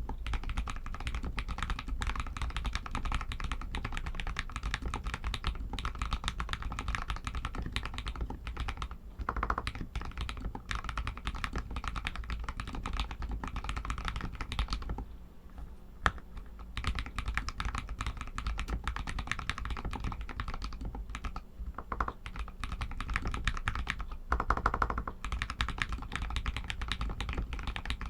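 Typing on a Royal Kludge RK61 mechanical keyboard with Outemu Red linear switches: a fast, continuous clatter of keystrokes that thins out briefly about halfway, broken by one sharp click.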